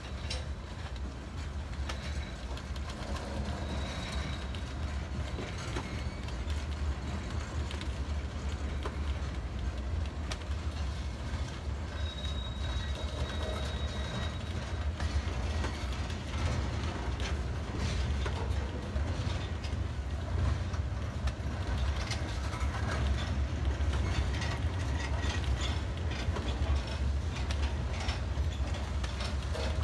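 Loaded steel-coil flatcars of a freight train rolling slowly past: a steady low rumble with scattered clicks and clanks from the wheels and couplings, growing a little louder. A faint high wheel squeal comes twice, briefly.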